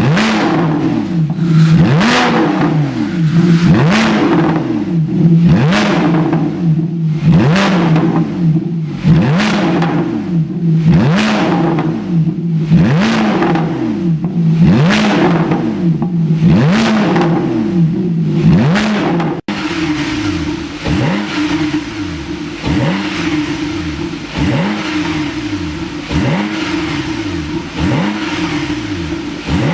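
Porsche 911 Carrera 4 (991) flat-six revved in repeated short throttle blips through an aftermarket dual variable exhaust, each rev rising and falling, about one every two seconds. After an abrupt cut about two-thirds of the way through, the blips come quicker, about one a second.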